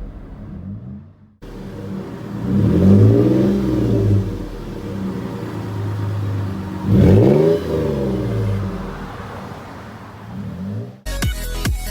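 2017 Toyota 4Runner's 4.0 L V6 running through a custom 2.5-inch cat-back exhaust with a Flowmaster 44 series muffler, blipped twice, each rev climbing quickly and falling back to a steady idle. Electronic music cuts in near the end.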